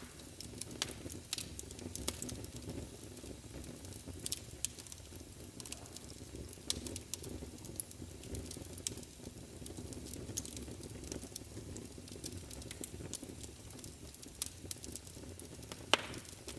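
Wood fire burning in a fireplace: a steady low rumble of flames with irregular crackles and pops, one sharper pop near the end.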